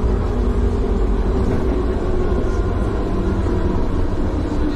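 Steady low rumble of a vehicle under way, with a constant engine or drive hum.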